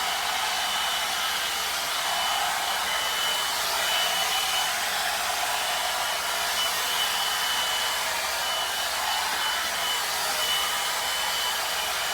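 Bontime hot-air dryer brush running steadily, a constant rush of blown air with a thin high whine over it that drops out now and then.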